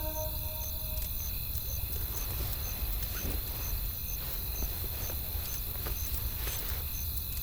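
Wood fire crackling, with scattered sharp pops over a low steady rumble, and a faint high chirp repeating about twice a second.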